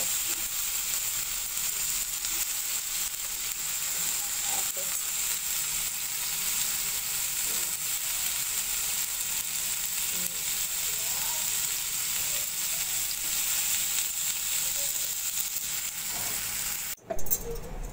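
Skewered chicken tikka pieces sizzling steadily in oil on a flat tawa pan over low heat. The sizzle cuts off suddenly near the end.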